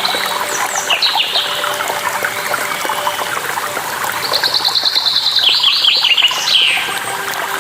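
Songbirds chirping and calling over steadily running water. A fast trill comes about four seconds in, followed by a quick series of short down-slurred notes, and further down-slurred whistles come near the start and near the end.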